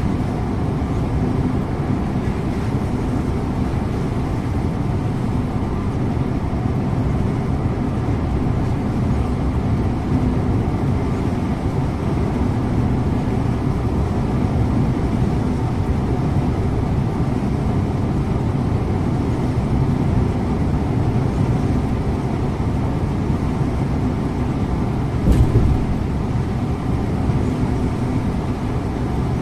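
Scania InterLink bus driving along: a steady engine drone and road rumble with a faint held hum. One brief thump about 25 seconds in.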